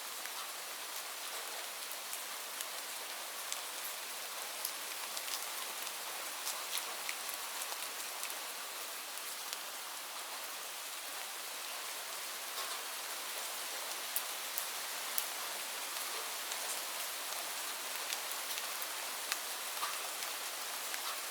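Steady rain falling, a constant hiss with many separate drops pattering on a hard surface.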